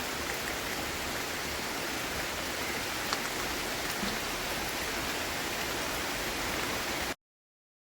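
Heavy rain falling in a steady, even hiss with the odd drop tick, which cuts off abruptly about seven seconds in.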